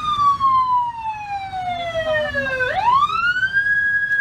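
Emergency vehicle siren on a wail cycle: a slow falling tone for almost three seconds, then a quick rise back up to a high held pitch near the end, over low traffic rumble.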